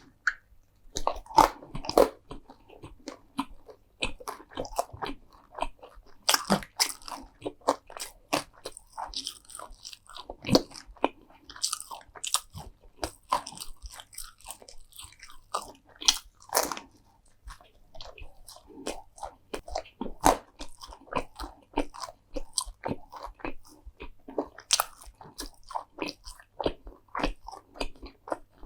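Close-miked eating of crunchy food: irregular loud bites and crisp crunching, with chewing in between.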